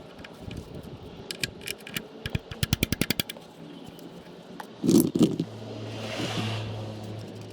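A 3/8-inch ratchet clicking rapidly, about ten clicks in a second, as the oil pan drain plug is unscrewed. A couple of loud clunks follow about five seconds in, then a brief rushing splash as the oil starts to pour out.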